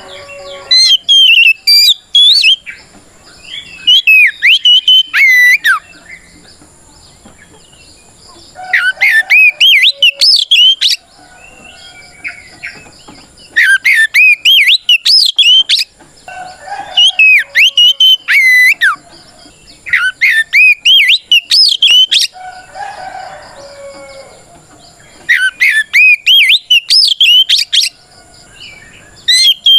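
Oriental magpie-robin (kacer) singing its loud challenge song: bursts of quick, varied whistled phrases about two to three seconds long, about seven of them, with short pauses between.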